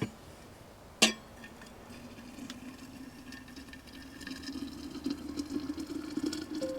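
A clink, then liquid being poured steadily into a container, its pitch rising slowly as the container fills.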